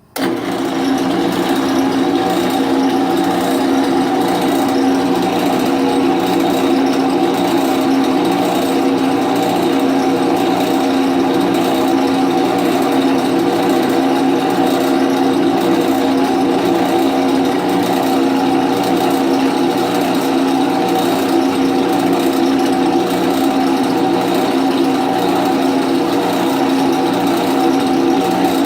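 Drill press running steadily, a 5/64-inch jobber bit drilling into oiled aluminium. It starts suddenly and holds an even motor hum with no change in pitch.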